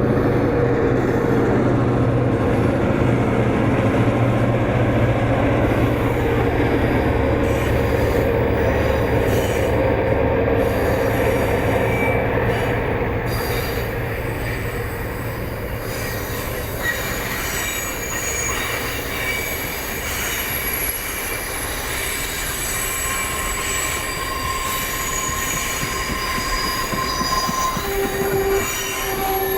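EMD FP7 and GP38-2 diesel locomotives working upgrade with heavyweight passenger cars, their engines a heavy drone in the first half. It then gives way to the cars rolling by with high, thin wheel squeals against the rail, with a few longer squeal tones near the end.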